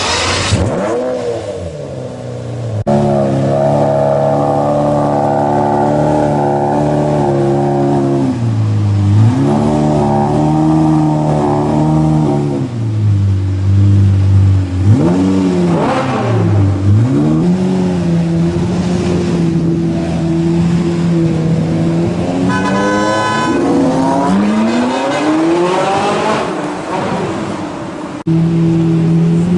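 Supercar engines revving and accelerating, the engine note climbing and dropping repeatedly, with abrupt switches from one car to another.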